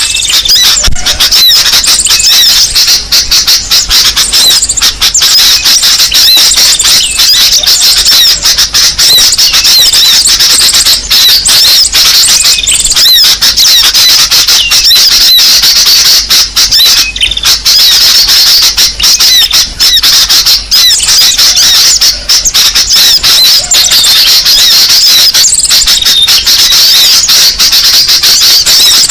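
Bird-lure (pikat) recording: a dense, unbroken chorus of small songbirds chirping and twittering at once, high-pitched and loud.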